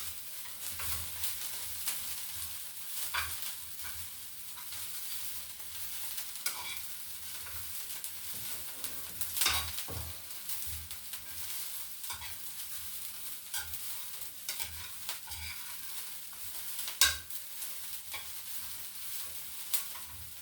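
Omena (small silver fish) frying in hot oil with onions and green pepper: a steady sizzle, with a spoon scraping and knocking against the pan as they are stirred, loudest about halfway through and again near the end.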